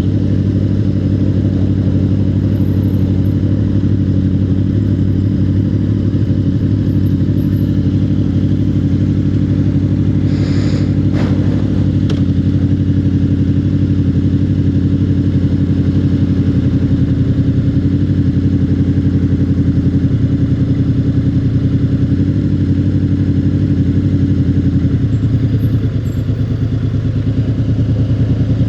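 Motorcycle engine running steadily while riding, with a brief click about ten seconds in and the engine easing off briefly near the end.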